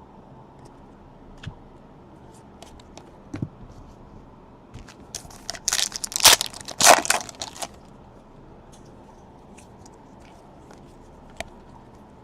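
Plastic crinkling and crackling for about three seconds, starting about five seconds in, with scattered small clicks and taps of card handling around it.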